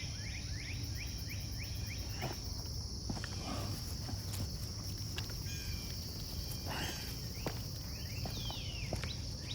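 A steady high-pitched insect chorus, with groups of short bird chirps breaking in now and then and a few faint clicks.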